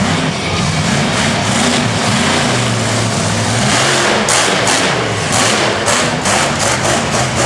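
Monster truck engine revving, its pitch rising and falling, with a quick run of sharp cracks in the second half.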